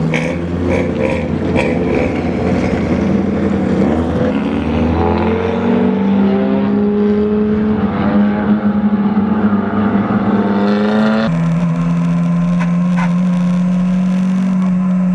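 Race car engine running hard, its pitch climbing about five seconds in and then holding high and steady. About eleven seconds in the sound cuts abruptly to another steady, slightly lower engine note.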